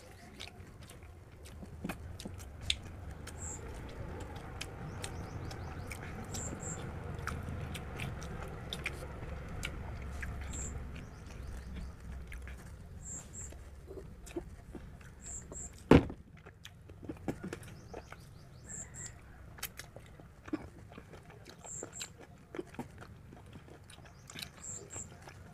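Two people chewing and biting poori with chicken curry close to the microphone, with many short mouth clicks. A single sharp knock about sixteen seconds in stands out as the loudest sound.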